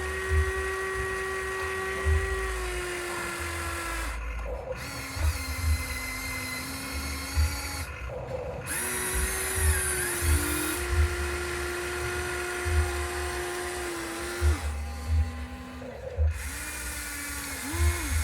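Small electric gear motors of RC construction models whining steadily, the pitch stepping up and down as the motors start, stop and change speed. Low thumps come every second or so underneath.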